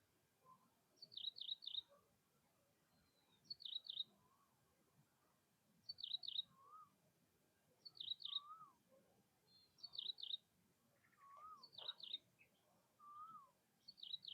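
A bird singing a short phrase of a few quick, high notes, repeated about every two seconds. In the second half a lower, rising-and-falling whistle joins in several times, which may be a second bird.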